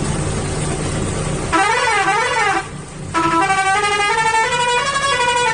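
Cartoon vehicle sound effects: a steady engine-like rumble, then about a second and a half in a warbling horn tone that slides up and down twice, followed by a horn sounding a run of stepped notes.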